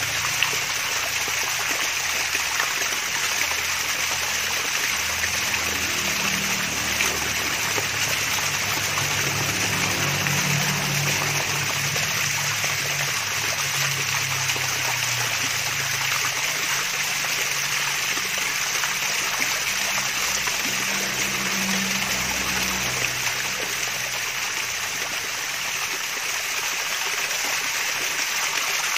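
Water from a small artificial waterfall running and splashing in a steady trickling rush.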